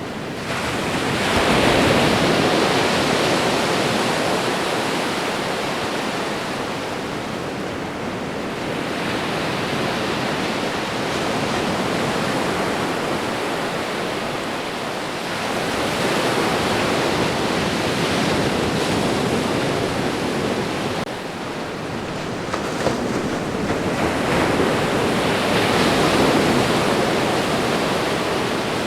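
Ocean surf washing onto a shore: a continuous rushing that swells and ebbs, rising four times as waves break.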